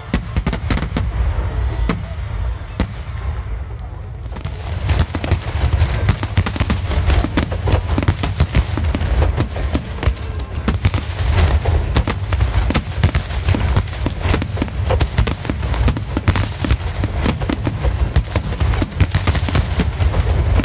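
Climax of a Japanese starmine fireworks display: aerial shells bursting in rapid succession, sharp bangs over a continuous low rumble of booms. The bangs come more sparsely at first, then about four seconds in become a dense, unbroken barrage.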